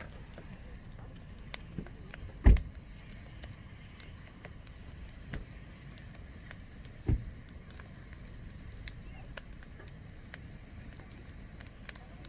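Campfire crackling, with scattered sharp pops over a low steady rumble. Two dull thumps stand out, one about two and a half seconds in and another about seven seconds in.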